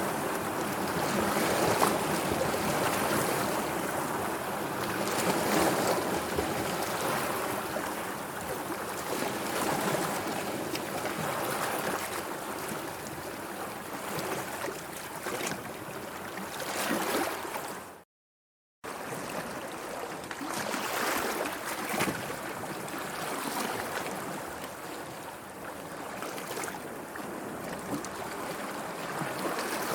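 Sea waves washing and lapping steadily, rising and falling in slow swells. The sound cuts out completely for under a second about two-thirds of the way through.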